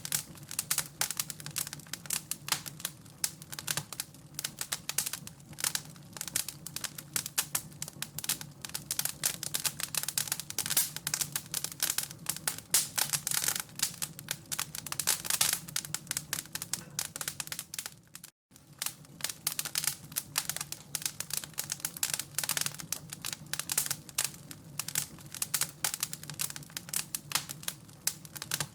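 Wood fire crackling with dense, irregular snaps over a low steady hum. The sound cuts out completely for an instant about two-thirds of the way through.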